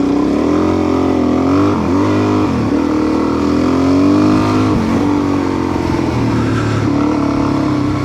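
Adventure motorcycle's engine under way, its note dipping sharply about three times in the first five seconds and rising again after each, then running steadily.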